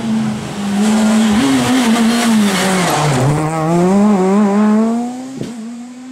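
A rally car's engine running hard as the car passes: the engine note drops about halfway through, then climbs again under acceleration, and fades about five seconds in as the car moves away.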